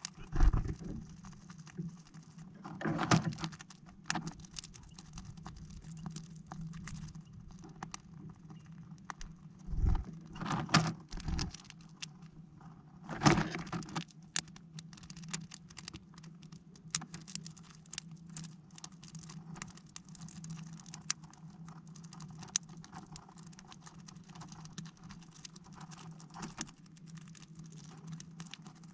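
Small birds pecking and scrabbling at a plastic-bottle bird feeder: a stream of light taps and clicks, with a few louder flurries of knocks near the start, around three seconds, around ten to eleven seconds and around thirteen seconds. A steady low hum runs underneath.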